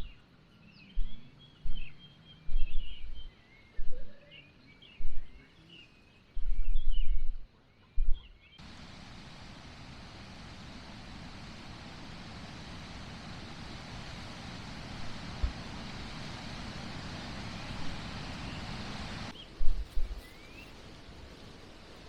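Birds chirping with a series of loud low thumps, then an even, steady hiss that starts abruptly about eight seconds in and cuts off about eleven seconds later, followed by more low thumps.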